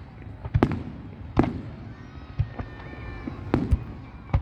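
Fireworks going off in a series of sharp bangs, about one a second, each followed by a booming echo.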